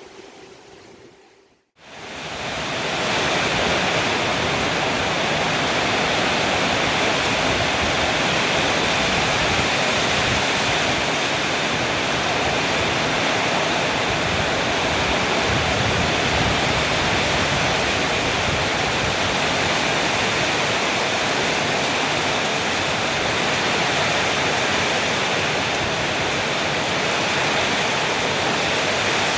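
Heavy rainstorm, a loud, steady, even rushing of downpour that sets in abruptly about two seconds in.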